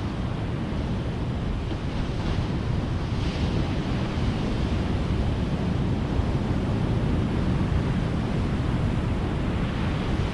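Ocean surf: waves breaking and washing in as a steady rushing noise, with a brief brighter hiss of spray about two to three seconds in.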